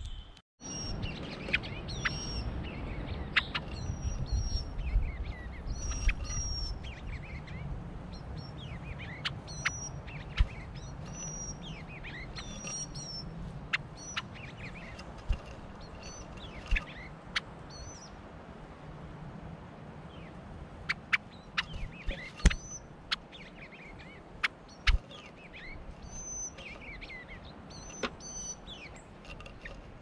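Wild birds chirping and calling: repeated short high chirps and falling notes, with sharp clicks and taps now and then.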